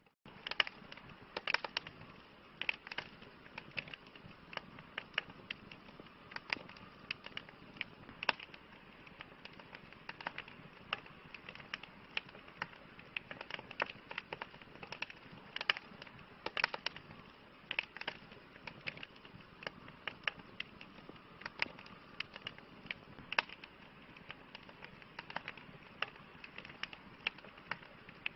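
Campfire burning: a soft steady hiss of flames with frequent, irregular sharp crackles and pops of burning wood.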